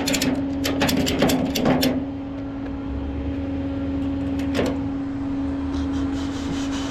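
A steady, even-pitched mechanical hum from a running vehicle, with a quick series of clicks and knocks over the first two seconds and one more knock a little after halfway.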